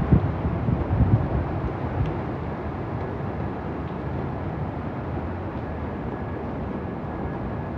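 Hurricane wind and driving rain make a steady rushing noise. In the first couple of seconds, gusts buffet the microphone.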